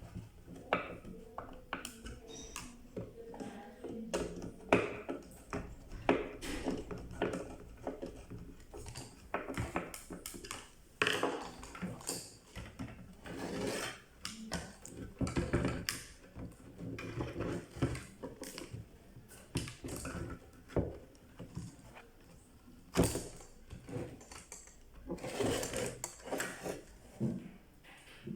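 Irregular clicks, taps and light clatter of small plastic and metal parts and tools being handled on a workbench.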